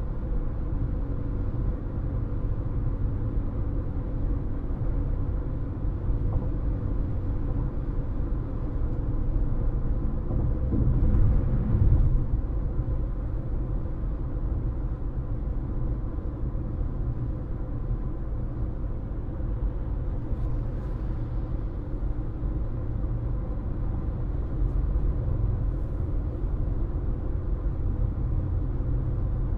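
Car interior road noise while driving: a steady low rumble of tyres and engine with a faint hum, swelling briefly a little over ten seconds in.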